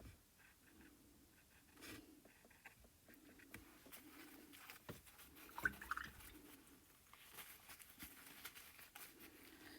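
Faint, irregular taps and scratches of a paintbrush dabbing acrylic paint onto a canvas, with a slightly louder cluster about six seconds in.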